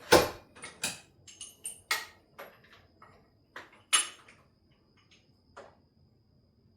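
Metal hand tools clanking and clinking as they are handled on the car: a string of irregular sharp metallic knocks, about seven in the first four seconds, then fewer and fainter.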